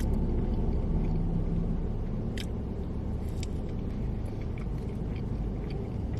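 Close-miked eating: a few short crunchy clicks of chewing, about two and a half and three and a half seconds in, then fainter ones, over a steady low rumble.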